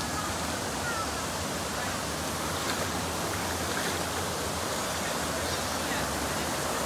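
Rushing water, a steady even rush with no break, with a few faint short chirps over it.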